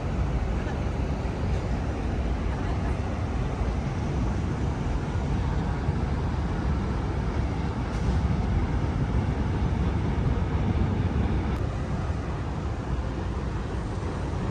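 Steady outdoor city ambience: a low rumble of wind on the microphone over a distant wash of traffic.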